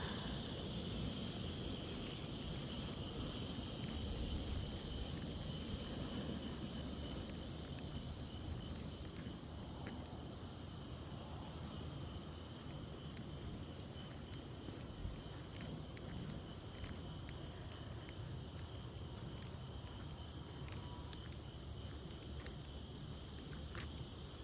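Steady outdoor insect chorus, a continuous high buzz that fades a little over the first several seconds, over a low rumble.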